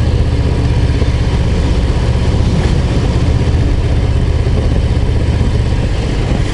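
Harley-Davidson Low Rider ST's Milwaukee-Eight 117 V-twin running steadily under way, its low exhaust pulses the loudest sound throughout.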